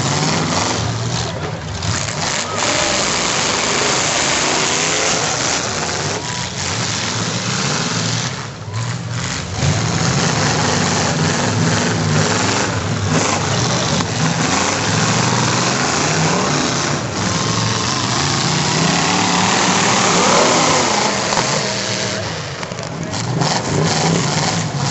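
Several demolition derby cars' engines running and revving together, a dense, continuous engine noise with a crowd's voices mixed in.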